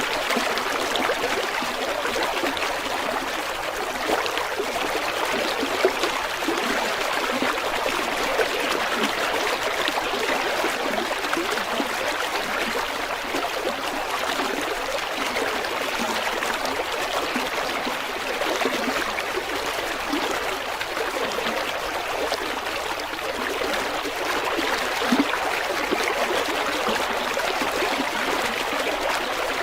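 River water flowing and babbling over stones: a steady, even rush with small splashes and gurgles, and now and then a slightly louder splash.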